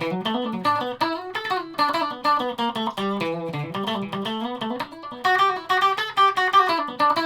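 Electric guitar played through a Stratocaster's pickup-selector position 2, the bridge and middle single-coil pickups together: a fast phrase of picked single notes and chord fragments, ending on a held ringing note.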